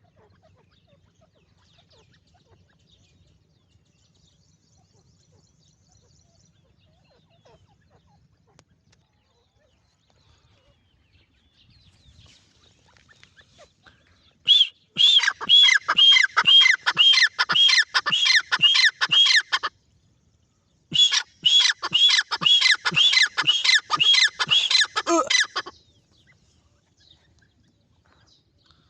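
Francolin (teetar) calling: after a quiet stretch, two loud bouts of rapidly repeated notes, about three a second, separated by a short pause.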